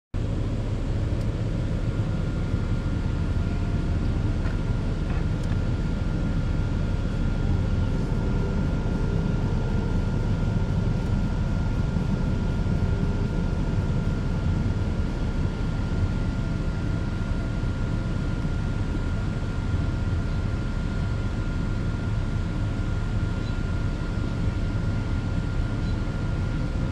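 Steady low rumble of a vehicle driving, with a faint steady high whine over it.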